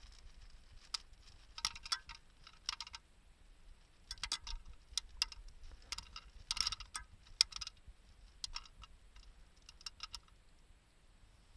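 Small wood fire crackling in a homemade secondary-combustion can stove: irregular sharp pops and ticks that come in clusters, the loudest about two-thirds of the way through.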